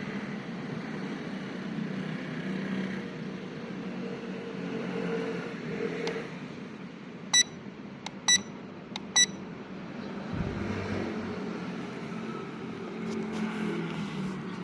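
Three short, high electronic beeps about a second apart, over a steady low hum.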